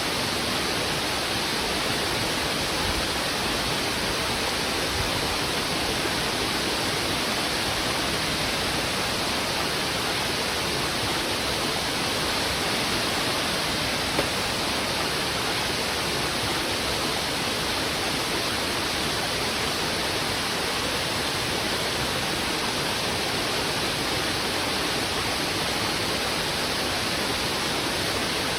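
Heavy river water rushing fast over rocks: a steady, dense, unbroken rush.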